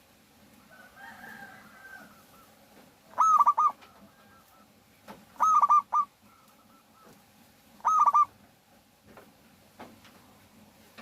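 Zebra dove (perkutut) calling: three short phrases of quick cooing notes, each under a second long, about two and a half seconds apart.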